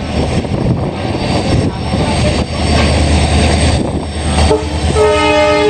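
Train running along the track, a steady rumble of wheels and coach noise with wind on the microphone, and a train whistle sounding as one steady held tone near the end.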